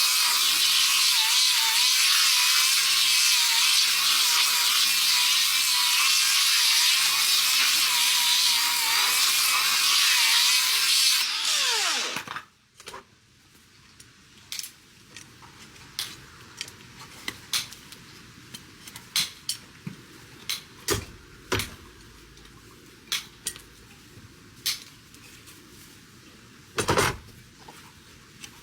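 A handheld power tool running steadily at high speed, switched off about twelve seconds in and winding down. After that come scattered sharp clicks and taps.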